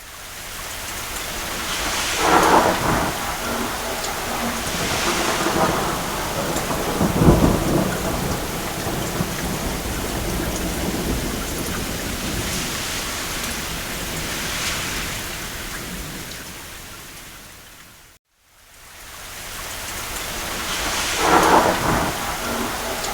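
Steady rain with thunder: a low rumble rolls through about a third of the way in, with crackling claps scattered around it. The sound fades out to a moment of silence about three quarters through, then fades back in.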